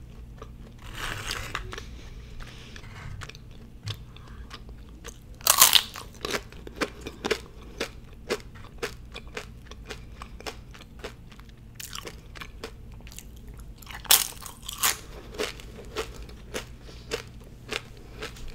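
Crunchy tortilla chips bitten and chewed close to the microphone: a loud crunch about five and a half seconds in and another about fourteen seconds in, each followed by a run of crisp chewing crunches.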